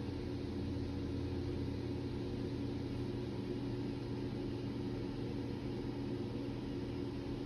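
A steady low mechanical hum, even throughout, with a faint hiss above it.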